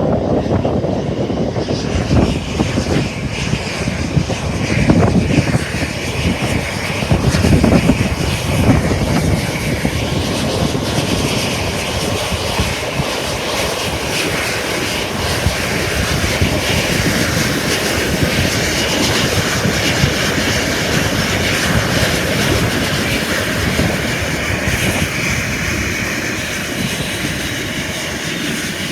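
Jet airliner engines running, heard through heavy wind buffeting on the microphone. The gusts are strongest in the first ten seconds, then a steadier engine whine takes over.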